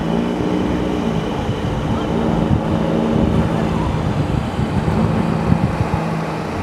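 Race car engines running at steady revs out on the ice, a level drone that drops away and comes back a couple of times.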